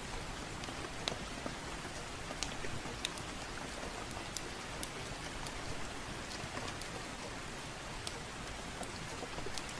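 Soft rain falling steadily, with sharp crackles from a fireplace popping at irregular moments, about one or two a second.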